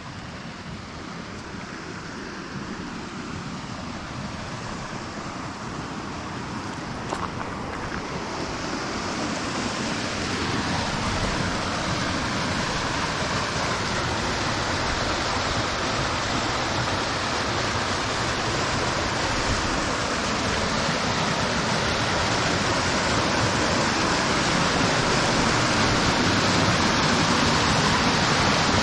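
Rushing water of a waterfall, a steady rush that grows louder throughout, with a brighter hiss filling in from about a third of the way in.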